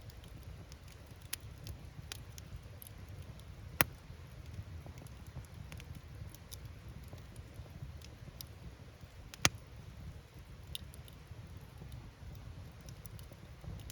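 Open wood fire crackling, with the low rumble of the flames, a scatter of small snaps and two loud pops of firewood bursting, about four seconds in and again near ten seconds.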